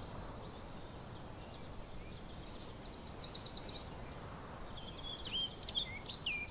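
Small songbirds singing over a steady outdoor hiss, with a quick trill about two and a half seconds in and short falling chirps near the end.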